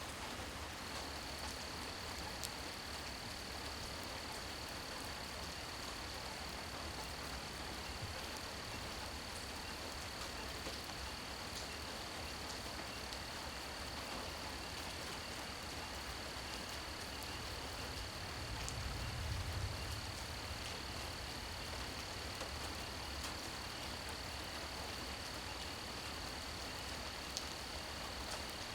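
Steady rain falling, with a continuous high trill of insects such as crickets and scattered small drip ticks. A low rumble swells briefly about two-thirds of the way through.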